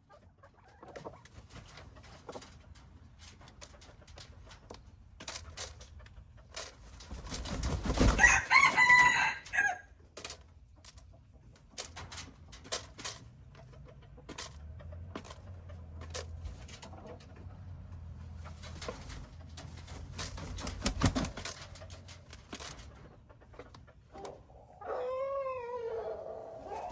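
A rooster crowing once, loud, about eight seconds in, among scattered clicks and rustles. A knock comes later, and near the end a shorter, lower, wavering call.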